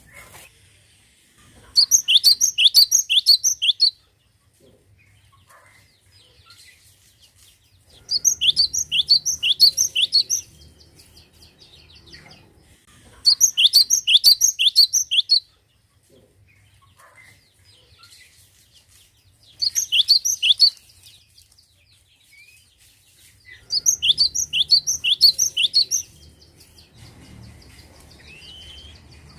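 Cinereous tit (gelatik batu) singing loud, fast runs of repeated down-slurred notes. Each run lasts about two seconds, and five runs are separated by pauses of several seconds.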